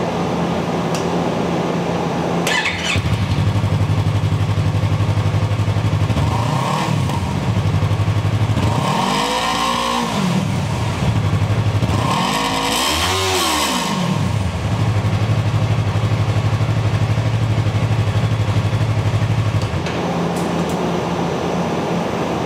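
Yamaha R3's 321 cc parallel-twin engine idling, blipped three times with rising and falling revs, the last two bigger than the first. The idle shifts about three seconds in and again near the end.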